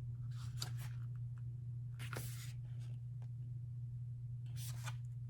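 Glossy paper handled: three brief rustles of album photobook pages being turned, about half a second in, at about two seconds and near the end, over a steady low hum.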